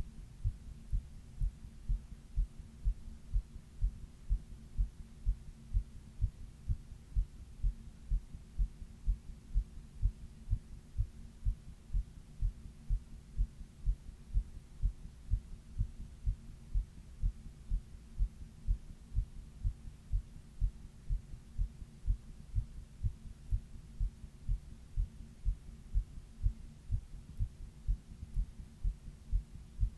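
A person's heartbeat heard close up, a steady, even rhythm of soft low lub-dub thuds over a faint steady hum, recorded while she had a 102-degree fever.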